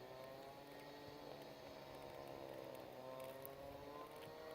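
Faint, distant small-engine drone, its pitch drifting slowly up and down, which is taken for someone cutting a tree or doing landscaping work.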